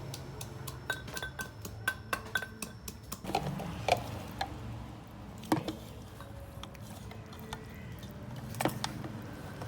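Kitchen clatter: a run of quick clinks and knocks of utensils and dishes in the first few seconds, then scattered single knocks, over a steady low hum.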